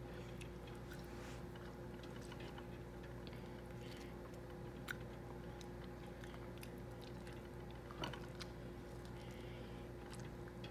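A toddler chewing and biting orange wedges, with scattered small mouth clicks; the sharpest come about five seconds and eight seconds in. A steady low hum runs underneath.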